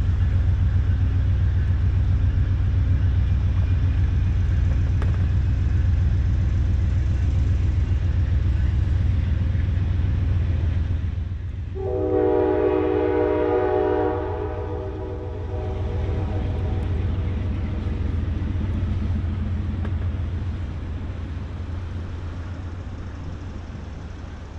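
Diesel locomotive engines giving a loud, steady low rumble that echoes, with one train horn blast of two to three seconds about halfway through. The rumble fades toward the end.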